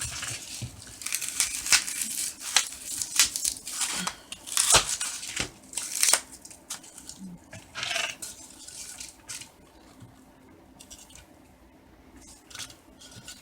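Scissors snipping through a piece of styrofoam, an irregular run of sharp cuts and tearing sounds that thins out and stops about nine or ten seconds in.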